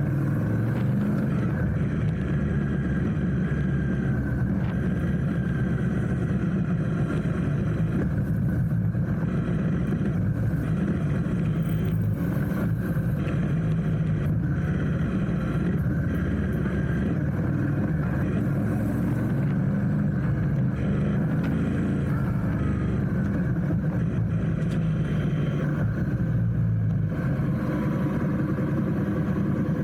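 Motorcycle engine running steadily while being ridden through city traffic, with a continuous low rumble and no sharp events.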